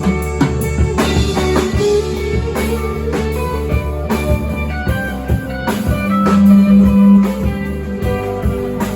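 A rock band plays an instrumental passage between sung lines: guitars over a drum kit. A loud low note is held from about six to seven seconds in.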